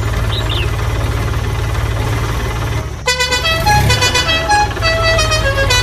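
A small engine running with a fast, even chug. About halfway through, a melodic horn-like tune of several stepped notes starts over it.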